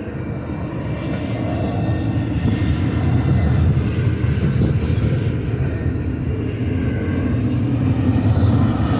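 Diesel freight locomotives running with a steady low rumble that grows slowly louder as they approach.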